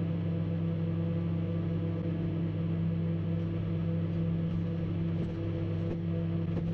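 Microwave oven running with a banana inside, giving a steady electrical hum.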